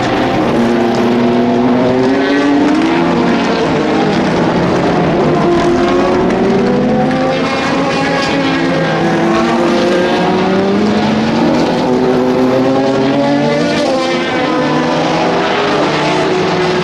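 Several race car engines running at once, their pitches rising and falling in overlapping sweeps as the cars accelerate, shift and pass.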